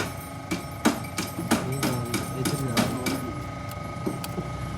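Sharp knocks, about three a second, thinning out about two seconds in, with faint voices behind.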